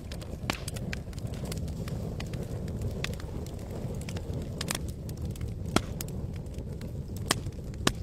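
Wood campfire crackling, with irregular sharp pops over a steady low rush; two pops late on are much louder than the rest.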